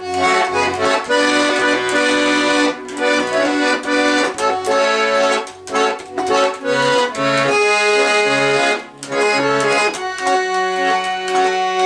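Accordion playing an instrumental passage between sung verses: sustained chords over bass notes on the left-hand buttons, with the bass sounding in short separate notes.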